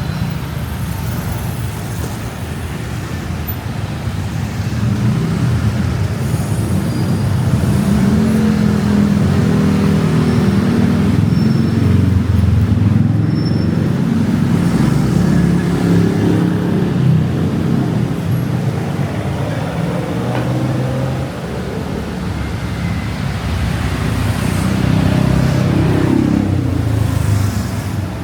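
Road traffic on a busy city street: motor vehicles running and passing close by in a steady low rumble that grows louder a few seconds in, eases briefly, then swells again near the end.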